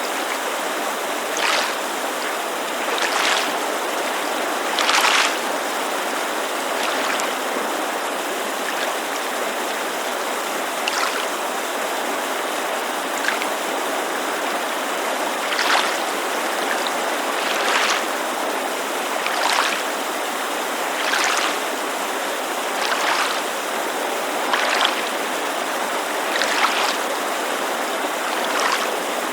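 Steady rushing of a creek with small lake waves lapping against the shore in short splashes every second or two.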